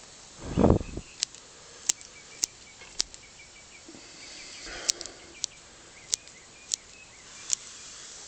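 Bonsai scissors snipping, a string of about ten sharp clicks roughly every half-second as leaves and shoots are trimmed. A single low thump comes just before the first snip.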